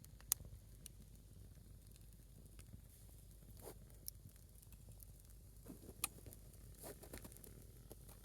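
A small wood fire burning on a single log: faint steady hiss with scattered sharp crackles and pops, the loudest pop about a third of a second in and another about six seconds in.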